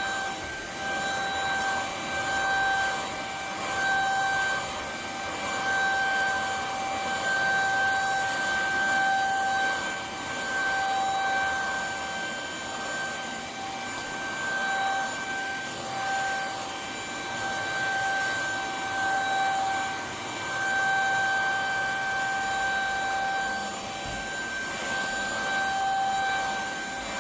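ElecKeys K10 cordless stick vacuum cleaner running, a steady high motor whine over rushing air that swells and eases about every two seconds.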